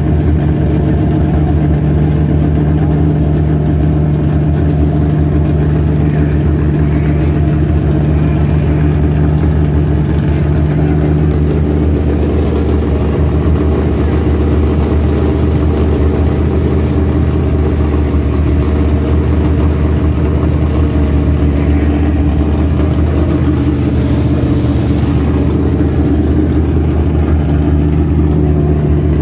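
Car engine idling steadily, its low note holding even and changing slightly about twelve seconds in.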